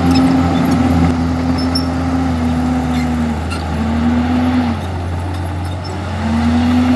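Komatsu D51EX bulldozer's diesel engine running hard. Its note falls away twice in the middle and picks back up near the end, with light clicks and clanks over it.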